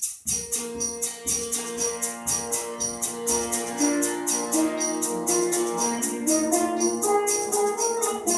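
Live band playing the instrumental opening of a sitar song: a percussion beat of about four strokes a second, joined just after the start by sustained melodic notes.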